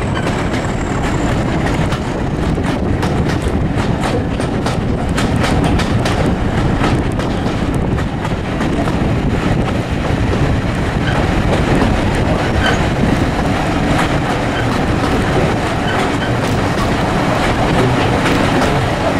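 Heritage railway coaches running on jointed track, heard from an open carriage window: a steady rumble with the wheels clicking over the rail joints, the clicks thickest in the first part.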